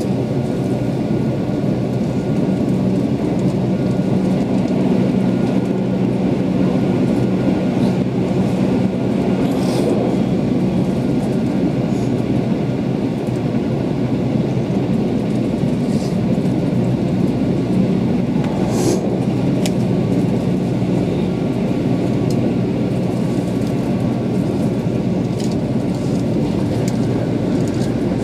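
Keihan 8000 series electric train running at speed, heard from inside the passenger car: a steady rumble of wheels on rail with a constant hum underneath. A few sharp clicks come through, about a third of the way in and again near two-thirds.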